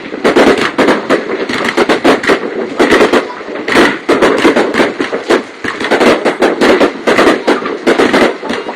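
Fireworks going off in a dense, rapid run of bangs and crackles, many a second without a pause.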